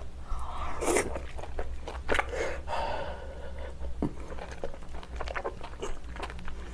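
Close-miked chewing of shellfish meat (웅피 clam): a run of crunchy, wet clicks and smacks from the mouth, which she herself calls noisy.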